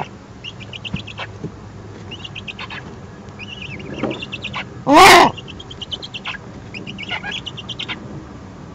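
Birds at a Eurasian eagle-owl nest: short high chirps repeat throughout, and about five seconds in comes one loud, harsh call lasting about half a second.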